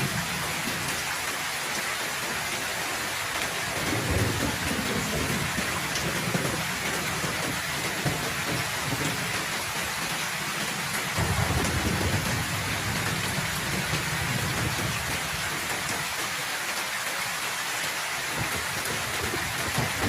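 Heavy rain falling steadily, with low rolls of thunder: a brief one about four seconds in, a longer one from about eleven to fourteen seconds, and another starting near the end.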